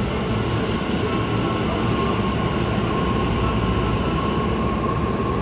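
Tobu 50050 series electric train pulling out of the station: a steady rumble of wheels and running gear with a thin, steady whine from the traction equipment.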